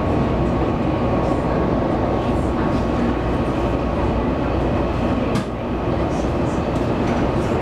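Running sound inside a Taiwan Railways local train: a steady rumble of wheels and running gear on the track, with a faint steady tone, and one sharp click about five seconds in.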